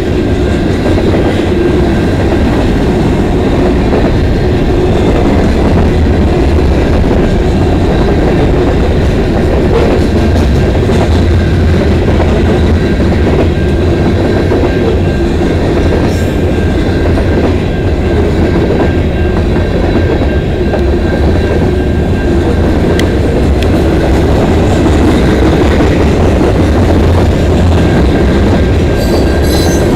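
Freight train cars, mostly covered hoppers, rolling steadily past on steel wheels: a loud, even rumble, with a thin steady high ring from the wheels and rails.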